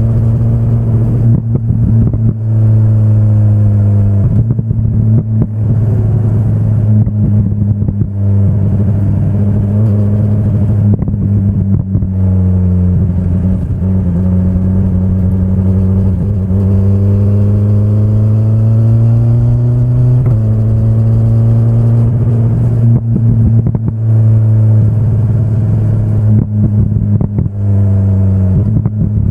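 Inline-four engine of a 2025 BMW S1000RR sport bike running under way, its pitch rising and falling with the throttle and dropping or jumping abruptly several times at gear changes.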